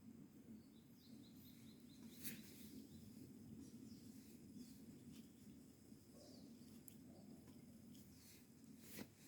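Faint birdsong: a quick run of high chirps about a second in, and scattered single calls after it, over a low steady hum. A couple of sharp snaps, one about two seconds in and one near the end.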